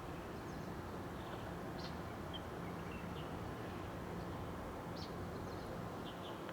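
Birds chirping in short, scattered high calls, about a dozen over the few seconds, over a steady low hum and rumble.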